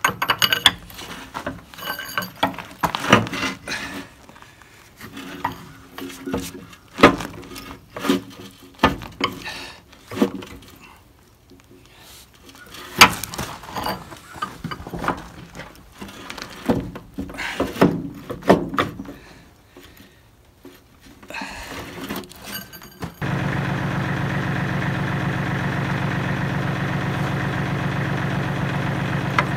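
Irregular metal clanks and knocks of hand tools working a backhoe's hydraulic cylinder loose. About 23 seconds in, the Kubota L35 tractor's diesel engine comes in abruptly and idles steadily.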